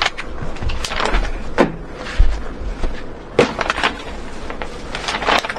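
Several sharp knocks and clatters with a couple of low thuds: flat-pack wardrobe parts being handled and moved about.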